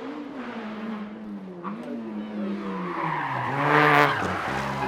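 Rally-prepared 2007 Toyota Corolla's engine revving hard through gear changes, its pitch rising and dipping several times. It grows louder as the car comes closer, peaking about four seconds in with a rush of tyre noise over the engine.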